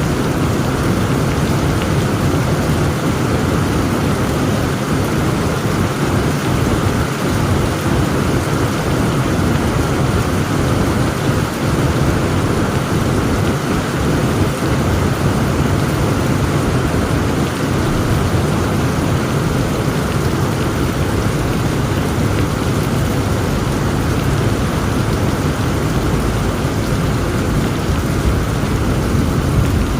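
Heavy rain falling steadily, with a continuous low rumble of thunder underneath.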